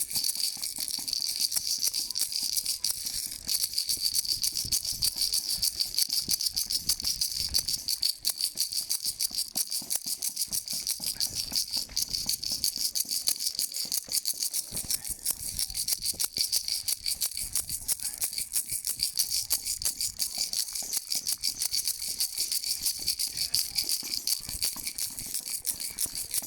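A hand-held rattle or shaker shaken rapidly without a break, a dense, even stream of high clicks.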